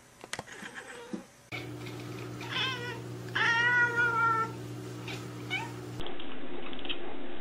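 Domestic cat meowing twice: a short wavering call, then a longer drawn-out meow. A steady low hum runs underneath.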